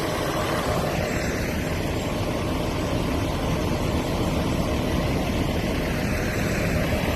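Fire apparatus diesel engine running steadily with a loud, even rumble.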